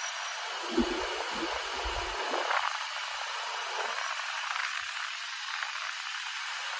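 Steady hiss of tyre and wind noise from a Ferrari California T on the move, its engine barely heard, with a few low bumps about a second in.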